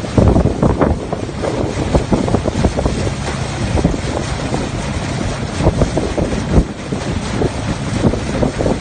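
Wind buffeting the microphone: a loud, continuous low rumble with frequent gusty thumps.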